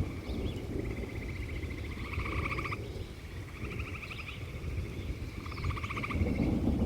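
Frogs trilling: repeated rapidly pulsed calls, each about a second long, one after another every second or two, over the low steady rumble of a rainstorm that swells near the end.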